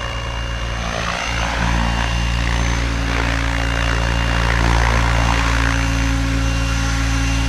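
Goosky RS7 electric RC helicopter in flight: the motor and main rotor give a steady hum, with a rushing blade noise that grows louder about two seconds in.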